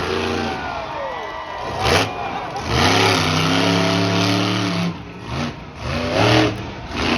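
Monster truck engine revving hard, its pitch climbing and dropping again several times, with a long held rev in the middle. A few short, loud hits stand out above the engine, the loudest about two seconds in and another near six seconds.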